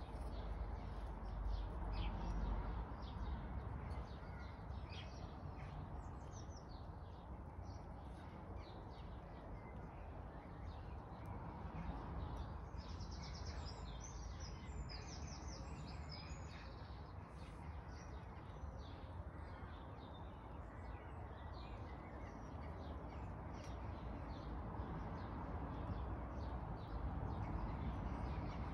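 Small birds chirping and singing, with a busier run of song about halfway through, over a steady low background rumble.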